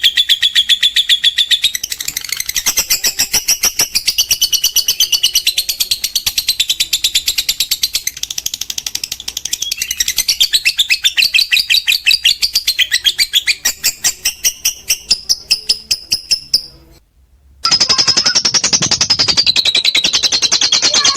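Lovebird giving its long 'ngekek' chatter: a rapid run of shrill, high-pitched pulses, shifting in pitch as it goes. It breaks off for about half a second roughly three-quarters of the way through, then starts again.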